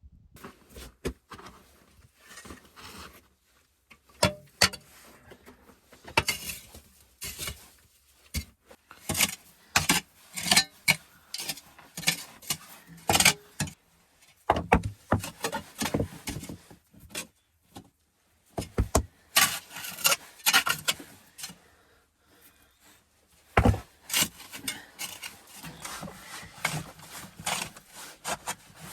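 Irregular handling noises: many short knocks, scrapes and rubs, with a louder knock about 23 seconds in.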